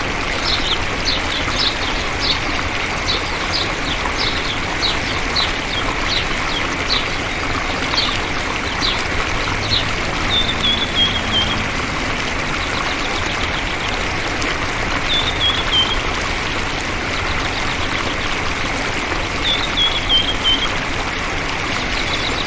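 A songbird calling over a steady rushing background: a run of short downward-sweeping chirps about twice a second for the first nine seconds, then three short descending trilled phrases spaced several seconds apart.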